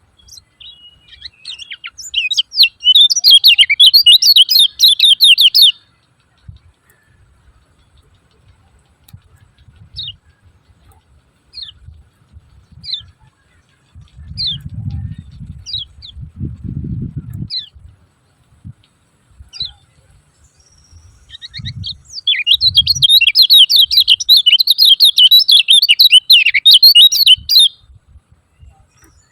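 Kecial kuning, a small yellow white-eye, giving its 'ciak ciak' call: two long bursts of fast, shrill chattering, the first a couple of seconds in and the second in the last third. Between them come single short chip notes, about one a second.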